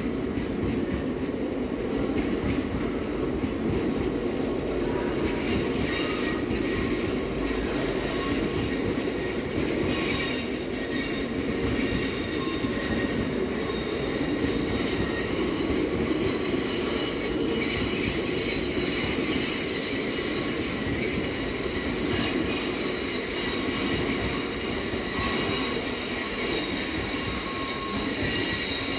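Freight train of GB Railfreight biomass hopper wagons rolling past, with a steady rumble from the wagon wheels on the rails. Thin, high-pitched wheel squeal from the curved track sets in about six seconds in and gets stronger later on.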